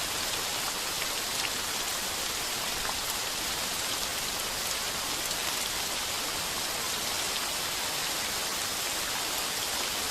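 Heavy rain pounding steadily on a tin roof: a dense, even hiss with scattered patter of individual drops.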